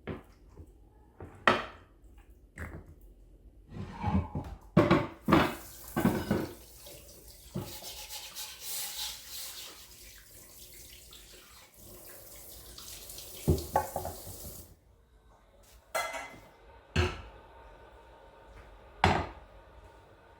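Kitchen tap running into a sink for about ten seconds, then shut off suddenly. Sharp knocks and clatter of dishes and utensils come before and after it.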